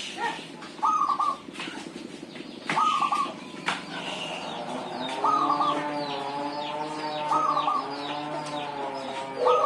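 Zebra dove (perkutut) cooing: short, pitched cooing phrases repeated about every two seconds, with fainter high chirps behind them.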